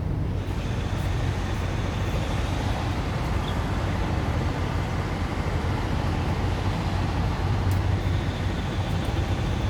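Strong wind buffeting the microphone: a steady, unsettled low rumble.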